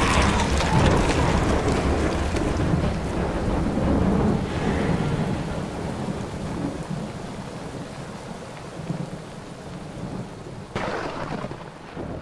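Steady hiss of rain with a deep rumble of thunder, slowly fading, with a brief swell near the end before it dies away.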